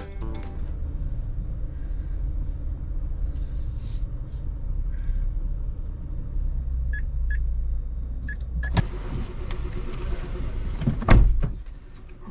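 Steady low rumble heard from inside a car in a Daifuku Fabrica automatic car wash. Two short beeps come about seven seconds in, then a loud hiss from the wash machine starts about nine seconds in, with a heavy thump about eleven seconds in.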